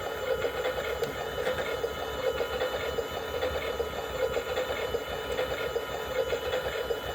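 Toy washing machine running a wash cycle: a small electric motor whining steadily, with an uneven rattle.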